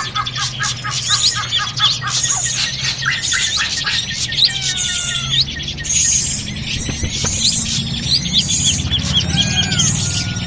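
Bird-lure recording of a noisy chorus of small birds featuring the ashy drongo (srigunting): many calls overlapping at once. The chorus mixes rapid repeated chirps, trills and rising and falling whistled notes, with no pauses.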